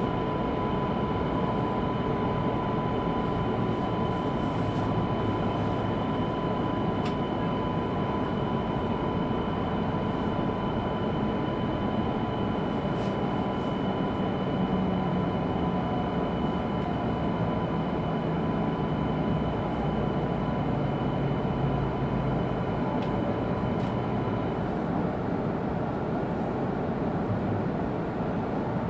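Cabin running noise of an E2 series Shinkansen car: a steady rumble of the train moving on the track, with a thin steady high tone and a fainter higher one that cut out near the end.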